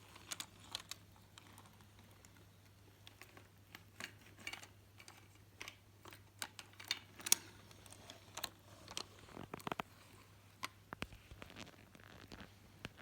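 Light, irregular clicks and taps of small toy cars and a toy truck being handled and knocked together. A few sharper clicks come about seven seconds in and again around nine to ten seconds.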